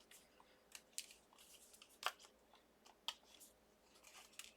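Faint, scattered clicks and short rustles of card stock die cuts being handled and freed from a steel-rule cutting die.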